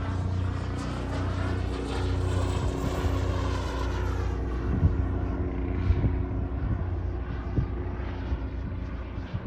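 JetCat P300 Pro turbine in a BVM Desperado RC jet making a pass: the jet's rush swells and its high whine drops in pitch as it goes by, then the sound fades into a thinner, distant rush. Wind bumps on the microphone come through in the second half.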